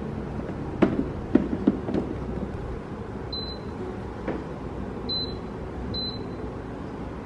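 A few light knocks and clicks, then three short high-pitched electronic beeps, spaced about a second or two apart, over a steady low hum.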